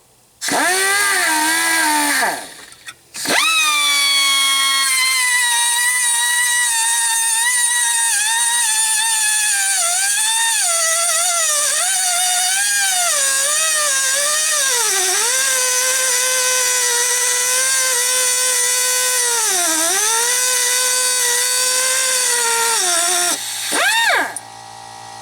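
Pneumatic cutting tool whining at high speed as it cuts through a seized exhaust manifold stud nut, its pitch sagging and recovering as the wheel bites under load. It stops briefly after about two seconds, then runs on until near the end.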